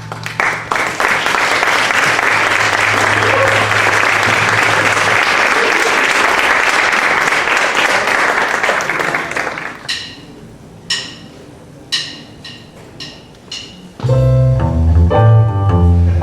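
Audience applauding for about ten seconds, fading out. A few short separate pitched notes follow, then an ensemble with a strong bass line starts playing near the end.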